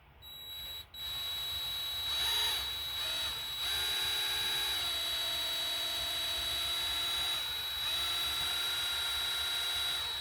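Electric drill boring out a broken screw in an engine block with a reverse drill bit. It stops briefly just under a second in, then runs almost without a break, its whine shifting in pitch a few times as the speed changes.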